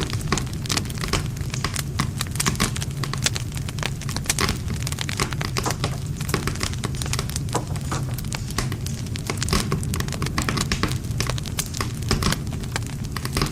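Wood campfire crackling: frequent sharp pops and snaps of burning wood over a steady low rumble of the flames.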